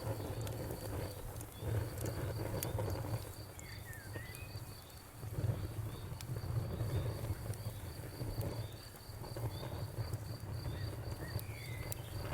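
Wood fire crackling, with a low rumble and scattered sharp pops. Behind it runs a steady train of high insect chirps, cricket-like, about three a second.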